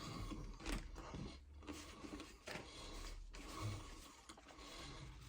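Faint eating sounds: a person biting into and chewing an omelette baguette, with light scattered crackles and rustles.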